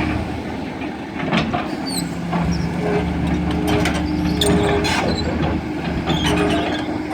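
Heavy diesel machinery running steadily, with scattered metallic clanks and short high squeaks over the engine drone.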